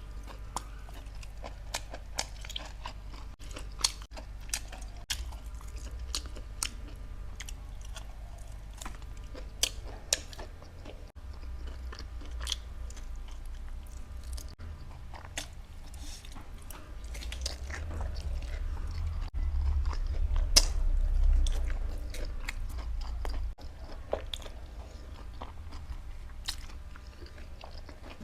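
Close-miked chewing of meat, with many sharp crunching clicks from bone or cartilage being bitten. A low rumble grows louder for a few seconds past the middle.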